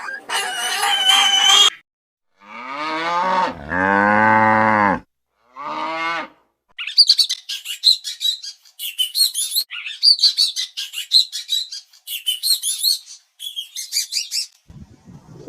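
A cow mooing, one long low call and a short one after, followed by a songbird singing a long run of rapid, high-pitched chirps.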